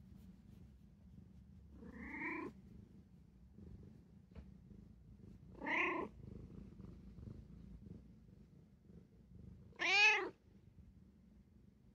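Domestic cat meowing three times, about four seconds apart, each meow rising then falling in pitch, the last the loudest.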